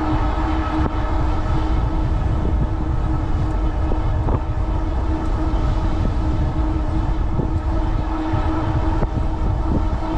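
Strong wind buffeting the microphone as a low, steady rumble, under a steady hum from the e-bike running at cruising speed with its Bafang rear hub motor under power.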